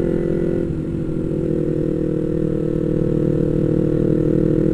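Yamaha MT-25's parallel-twin engine running steadily under a riding load; its note briefly dips just under a second in, then holds steady and gradually grows louder.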